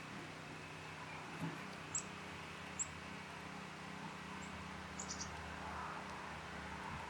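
Birds giving a few short, very high chips, scattered singly and once in a quick cluster of three, over a faint steady background hum.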